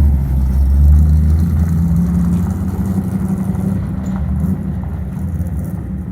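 Rebuilt Ford 302 (5.0 L) V8 in an F100 truck running on a test drive, a deep low engine note that is loudest about a second in and then gradually eases off.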